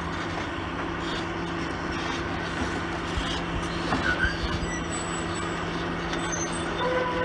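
Komatsu PC400LC excavator's diesel engine running steadily, with a few knocks about four seconds in.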